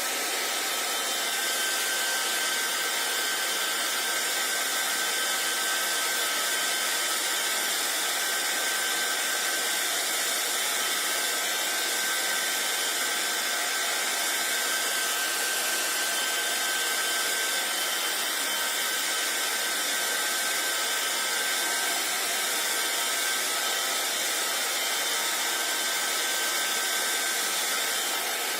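Hair dryer running steadily: an even blowing noise with a faint constant whine.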